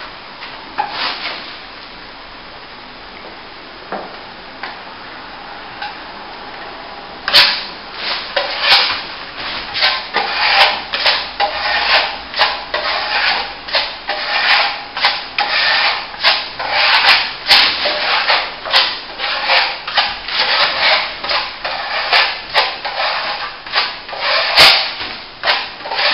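A steel plastering trowel scraping over top-coat jointing compound on plasterboard. After about seven seconds of faint hiss, it makes quick repeated scraping strokes, about two a second, until the end.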